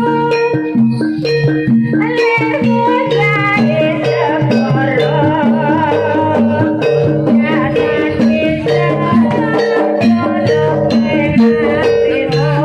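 Javanese traditional music played live: a wavering high melody over a repeating cycle of low pitched notes, with sharp percussion strikes.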